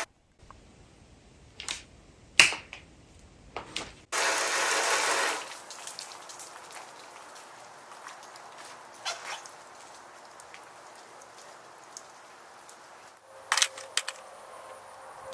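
Rain falling with scattered drips and taps. About four seconds in there is a brief loud rush of noise, and near the end a few sharp clicks.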